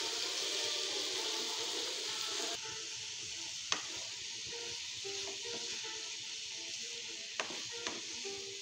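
Cabbage and potatoes frying in a non-stick kadai with a steady sizzle, stirred with a wooden spatula; the sizzle gets quieter about a third of the way in. A few sharp knocks of the spatula against the pan.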